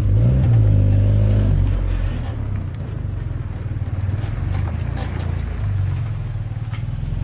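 Turbocharged Toyota MR2 engine heard from inside the car, rising in pitch as it accelerates for about the first two seconds, then settling into a steady low drone with road noise.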